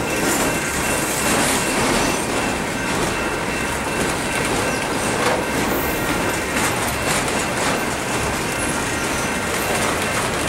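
Double-stack container freight cars rolling past: steady wheel and rail noise with clicking over the rail joints and a faint, thin high squeal from the wheels.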